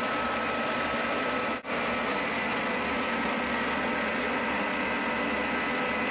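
C.R. Onsrud CNC router running, its spindle giving a steady whine over a hiss of machine noise, with a momentary break about a second and a half in.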